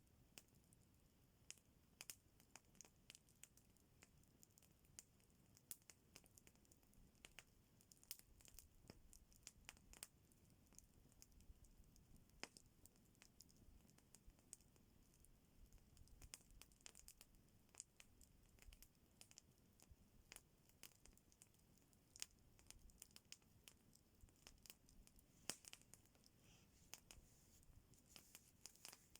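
Campfire crackling faintly: scattered, irregular small pops and snaps from burning wood, with a soft low rumble beneath.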